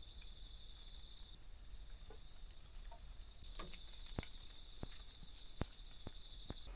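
Faint, high, steady insect trill that drops out for about two seconds early on and then resumes, with a few scattered sharp ticks in the second half.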